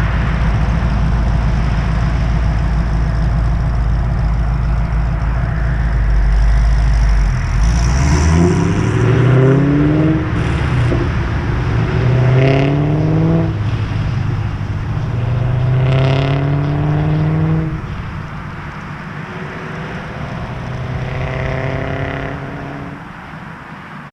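2006 Pontiac GTO's LS2 V8, breathing through long-tube headers and a Corsa cat-back exhaust, idling with a deep steady rumble, then accelerating hard. Its pitch rises three times with short breaks between for gear changes. The sound then drops back and fades near the end.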